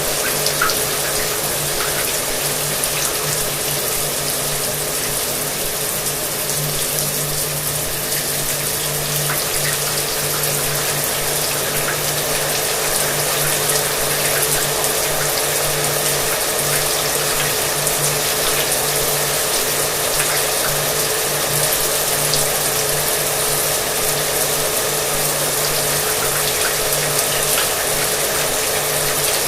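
Shower water running steadily with a hair dryer running underneath, its motor giving a constant hum and whine beneath the hiss of the spray.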